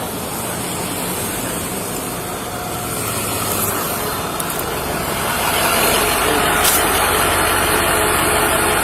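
A motor vehicle engine running at idle, with steady noise that grows louder about halfway through.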